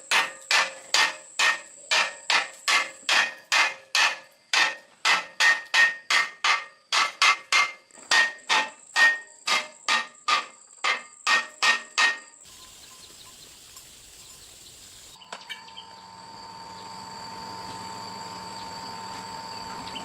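A hammer striking metal, about two ringing blows a second, which stop about twelve seconds in. A steady high insect buzz follows.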